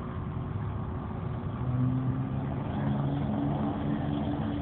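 Car engine running, its note growing louder about two seconds in and then rising a little in pitch as it revs.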